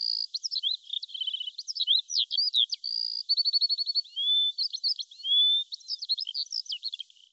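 A songbird singing a fast, varied run of whistled notes, slurred chirps and short rattling trills, all high-pitched with nothing low beneath.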